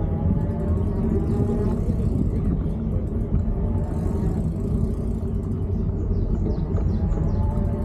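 Electric bicycle's 36V 250W hub motor whining faintly while riding, the whine rising slightly in pitch near the start and again near the end, over a steady low rumble.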